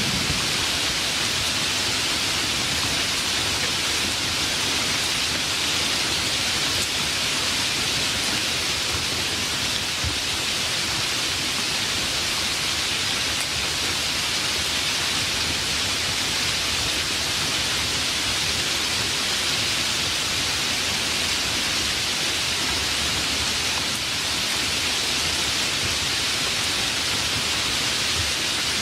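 Steady heavy rain, an even hiss without let-up.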